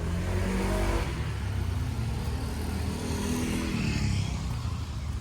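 A motor vehicle's engine passing close by on the road, loudest through the middle and bending down in pitch as it moves off near the end.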